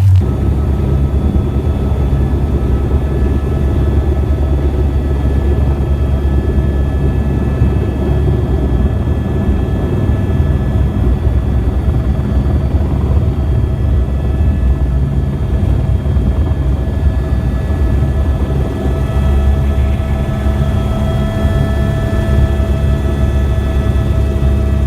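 Helicopter in flight, heard from inside the cabin: a loud, steady low drone from the rotor and engine, with several faint steady whining tones above it.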